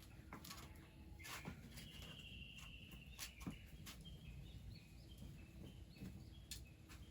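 Faint bird song: a short rising whistle, then one long held whistle, then a run of short high chirps. Scattered faint clicks and ticks sound behind it.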